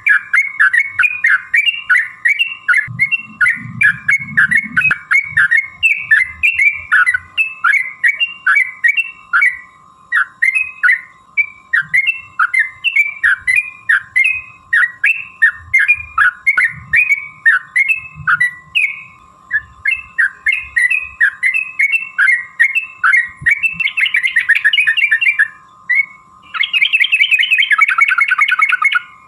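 Yellow-vented bulbul (trucukan) singing a rapid series of short, bubbly whistled notes, about two to three a second. Near the end it breaks into fast rattling trills, the long 'ropel' song used to provoke other bulbuls into answering.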